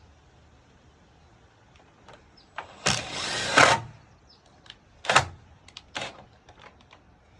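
A cordless drill runs in a short burst of about a second, then two sharp knocks follow about a second apart.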